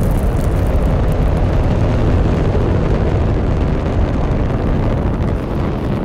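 Delta IV rocket at liftoff, its RS-68 main engine and two solid rocket motors firing: a loud continuous roar, heaviest in the bass, easing slightly near the end.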